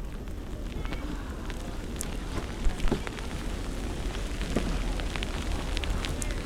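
Outdoor street noise in a snowstorm: a steady low rumble of wind on the microphone under a crackling hiss with scattered clicks, and a brief louder knock a little before the middle.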